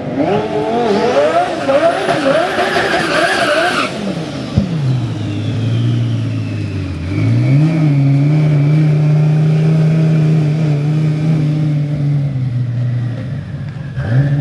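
Twin-turbo Lamborghini Gallardo V10 revving up and down through a burnout, with tyre-spinning hiss, for about four seconds until it cuts off. The engine then settles to a low steady note, and a few seconds later the revs are raised and held steady.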